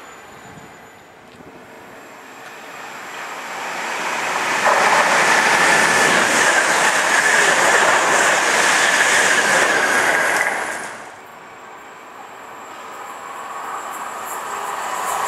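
A London Midland Class 350 electric multiple unit passes through the station at speed. Its approach swells, then there are about six loud seconds of rushing wheels and rail noise with a steady high whine, cut off sharply as the train clears. Near the end the rumble of the next approaching train builds up.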